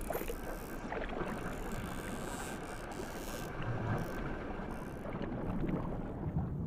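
Rushing, churning seawater, with scattered faint clicks through it.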